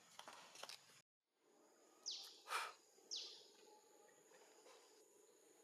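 Quiet forest ambience with birds: two short, sharp bird calls about a second apart, each falling quickly in pitch, and between them a brief louder sound, over a thin steady high whine. The sound cuts out briefly about a second in.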